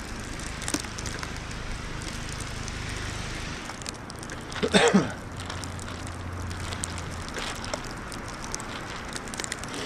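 Wind noise with light crackling of a plastic trash bag worn over the body, and a short vocal sound, like a grunt or sigh, about five seconds in.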